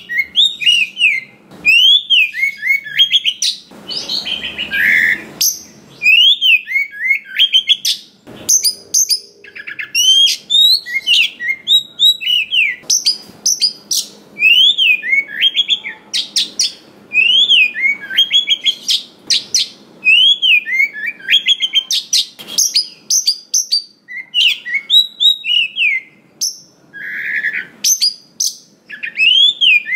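Oriental magpie-robin singing a long, varied song of rapid whistled notes that sweep up and down, delivered in quick runs with short gaps. A harsher, rasping note comes about four seconds in.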